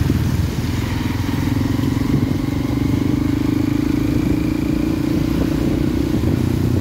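Motorcycle engine running steadily while riding, with continuous road and wind noise.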